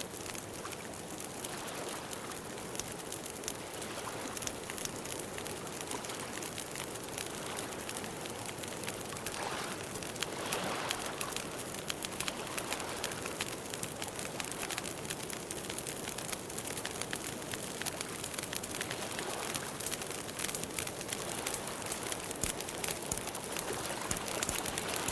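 Campfire crackling steadily with many small pops, with birds calling softly in the background.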